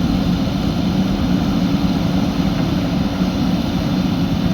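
A heavy diesel engine of a working machine running steadily, a constant low drone with no knocks or changes.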